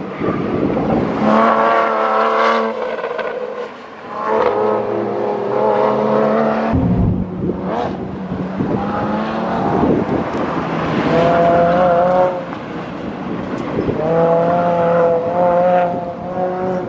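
Sports cars being driven hard through an autocross cone course: first a Porsche, then a Mazda Miata. The engine revs up in about five pulls of a second or two each and eases off between them.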